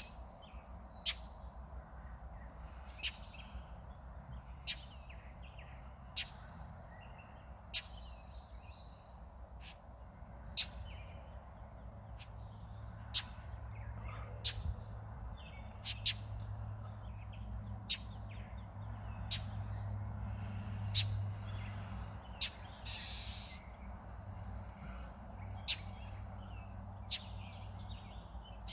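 A bird giving single sharp chirps, repeated about every one and a half seconds: alarm calls of a bird defending its nest against a cat. A low steady hum runs underneath.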